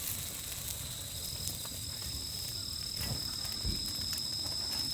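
Crickets chirring in a steady chorus, with a second, higher insect note joining about a second in. A few faint clicks and a low knock come in the second half.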